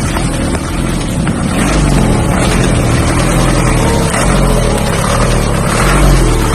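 Truck engine running while driving, its pitch rising and falling, with steady road and wind noise.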